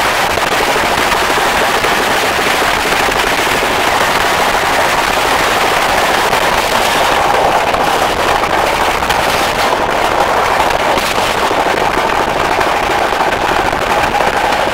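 Passenger train running, a loud, steady, dense rattle and clatter of noise.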